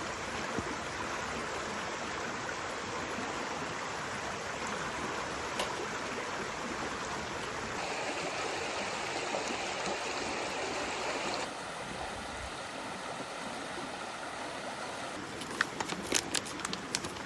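Steady hiss of rain falling, its tone changing abruptly twice, with a run of sharp ticks and pops near the end.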